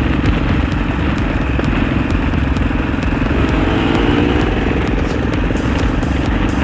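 Husaberg FE 650 single-cylinder four-stroke dirt bike engine running steadily as the bike is ridden.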